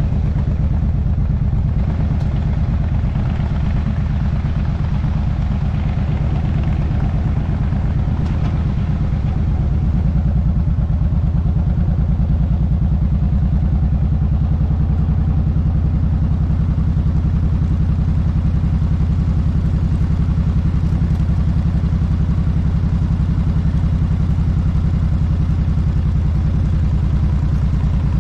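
Suzuki Boulevard C90's V-twin engine running steadily under way, with rushing air, a little louder from about ten seconds in.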